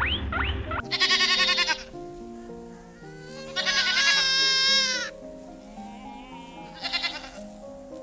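Goat bleating: two long, wavering bleats and a short one near the end, over background music. A few short rising squeaks sound in the first second.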